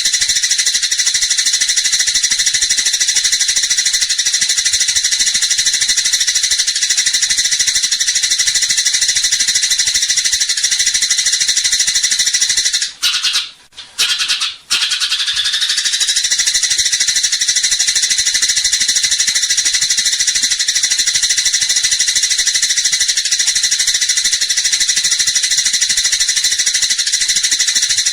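Eurasian tree sparrows chirping in a rapid, continuous, high-pitched chatter, the squabbling calls of fighting sparrows. It breaks off twice briefly about halfway through.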